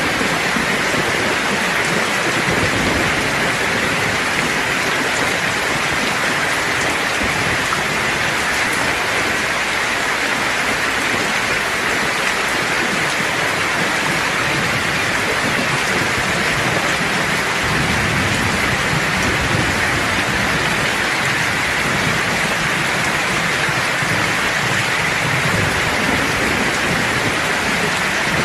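Steady, even rain. A low rumble of distant thunder comes in about two-thirds of the way through.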